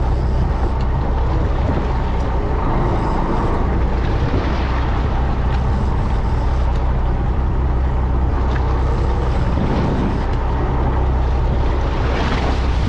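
A fishing boat's engine running steadily with a constant low hum, under wind and water noise.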